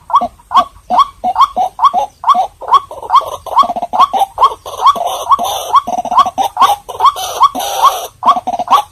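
White-breasted waterhen calling over and over, about three short, upward-sweeping notes a second, growing denser and rougher in the middle of the stretch.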